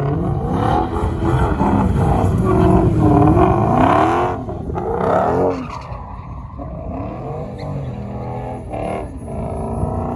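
Truck engine revving up and down with tyre squeal, loudest in the first half and dropping off about six seconds in.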